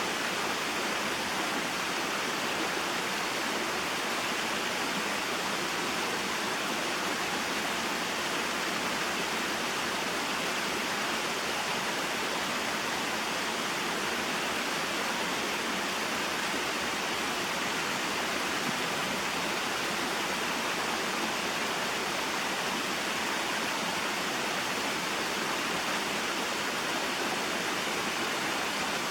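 Small mountain waterfall and stream: water falling and flowing steadily, an even rushing noise.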